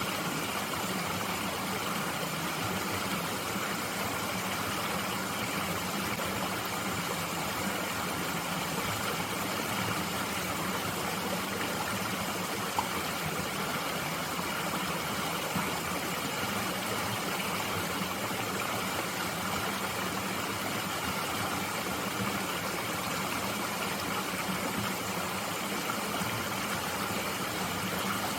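Mountain stream flowing steadily, an even rush of running water with no change in level, and one brief click about halfway through.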